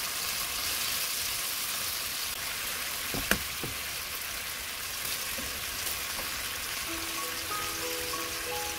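Thin-sliced pork belly sizzling steadily in melted butter in a frying pan, with one sharp tap about three seconds in. Soft music with held notes comes in near the end.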